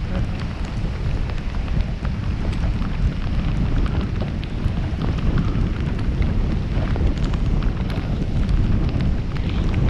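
Typhoon-strength wind buffeting the microphone in a steady low rumble, with rain spattering in many small ticks.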